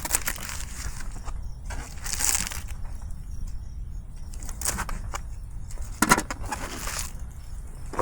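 Plastic packaging rustling and crinkling as food is handled, with a few sharp knocks, the loudest about six seconds in, over a steady low rumble.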